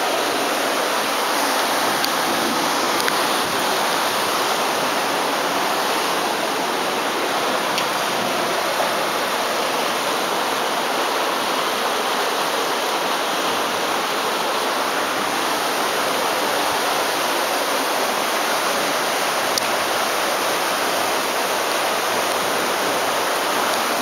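Heavy rain pouring down in a storm: a dense, steady hiss.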